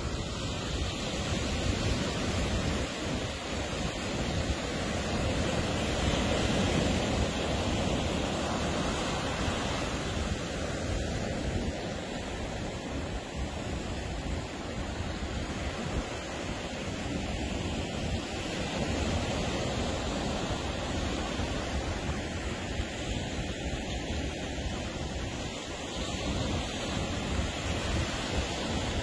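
Ocean surf breaking and washing up a beach: a steady rush of waves that swells louder every several seconds.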